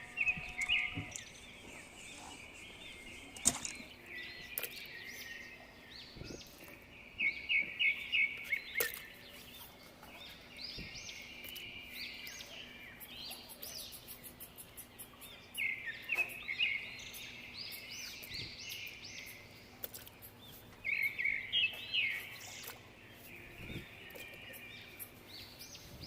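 Birds singing: repeated bursts of quick, high chirping notes every few seconds.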